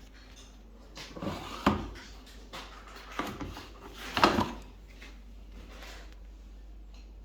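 Two short spells of knocking and scraping, like something being handled or slid: one about a second in and a louder one around four seconds in, over a faint steady hum.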